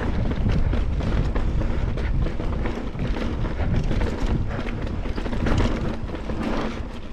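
Mountain bike rolling fast down slickrock: a loud, steady low rumble of wind and tyre noise on the ride camera's microphone, with frequent clicks and rattles from the bike over the rock.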